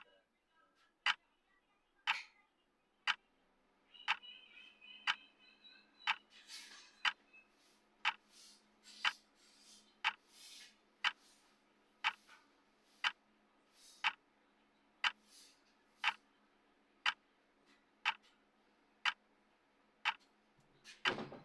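Clock ticking, one sharp tick each second: the tick track of a countdown timer.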